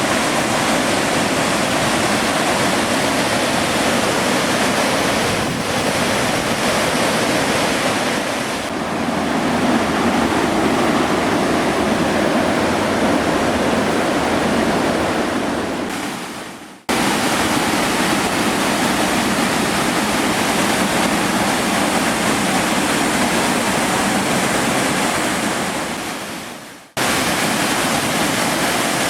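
A waterfall's rushing water, a loud, steady roar. It fades out and cuts back in abruptly twice, about 17 and 27 seconds in.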